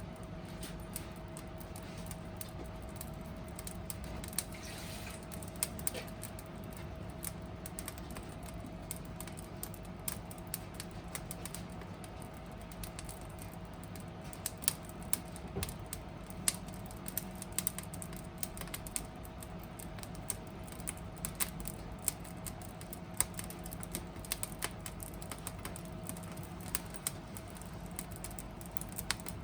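Wood fire burning, its logs crackling with irregular sharp pops, some louder ones in the second half, over a faint steady hum.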